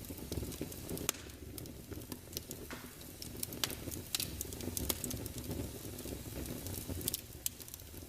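Electric fireplace playing its crackling-fire sound effect: irregular sharp pops and crackles over a steady low background noise.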